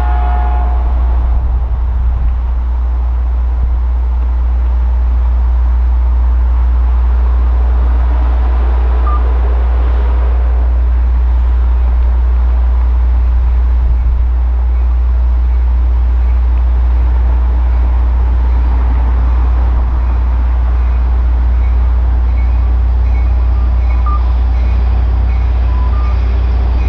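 Caltrain commuter train at the station, its diesel locomotive running with a steady low rumble. A run of short, evenly spaced beeps sounds over it near the end.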